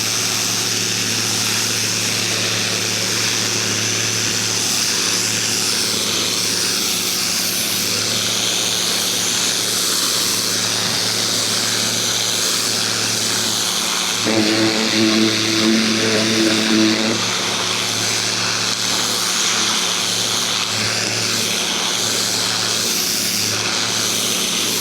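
Ryobi 2000 PSI electric pressure washer running steadily, its motor hum under the hiss of the high-pressure water jet striking the wood. About halfway through, a brief higher pitched tone joins for roughly three seconds.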